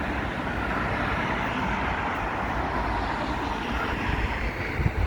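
Steady outdoor background noise, an even hiss and low rumble with no distinct events.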